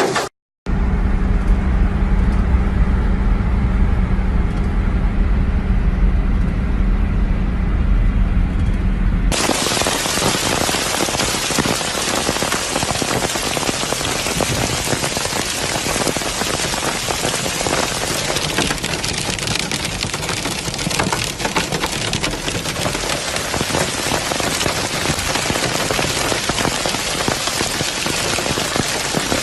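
Heavy rain pelting a surface in a dense, steady patter. For about the first nine seconds it is muffled under a low, steady rumble; then, after an abrupt change, it comes in loud and bright.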